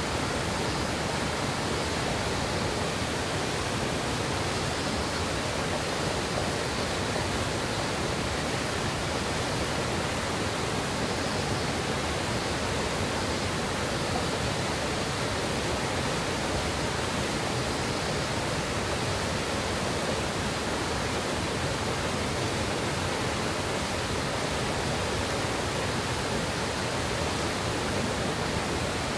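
Steady rush of a mountain river's water flowing over rocks, an even, unbroken sound that does not change.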